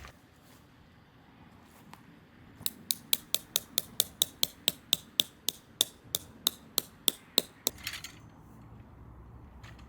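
Tent peg being hammered in with a quick series of light metallic strikes, about four a second for some five seconds, followed by a short scrape.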